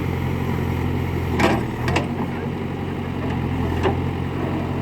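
Diesel engine of heavy machinery, a backhoe loader or tractor, running steadily, with three sharp knocks, about one and a half, two and four seconds in.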